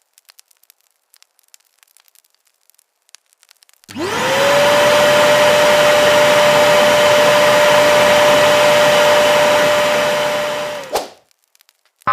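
Electric blower motor spinning up quickly to a steady whine with rushing air, running for about seven seconds, then cutting off abruptly.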